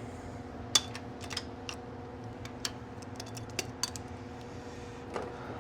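Scattered sharp metallic clicks and taps of a hand wrench working the steering gear housing bolts, unevenly spaced, over a steady shop hum.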